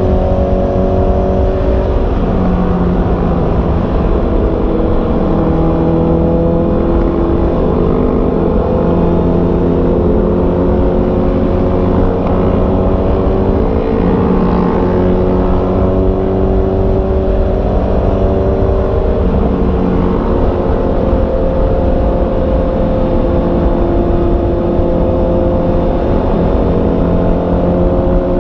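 Honda CB650R's inline-four engine running under way, its note rising and falling gently with the throttle, over a dense low rumble of wind on the microphone.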